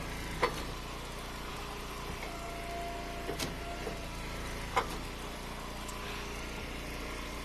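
Gas engine of a hydraulic wood splitter running steadily, with a steady higher tone that comes and goes as the ram works, and two sharp knocks about half a second and nearly five seconds in.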